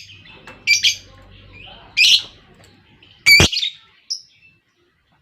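Lovebirds giving short, sharp, high-pitched chirps and squawks: about four separate bursts with pauses between, the loudest a little past three seconds in.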